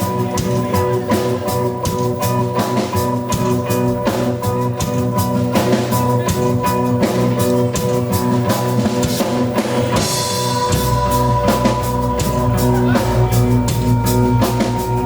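Live rock band playing an instrumental passage: a pounding drum kit over held keyboard and guitar notes, with bass guitar. The low bass end grows heavier about eleven seconds in.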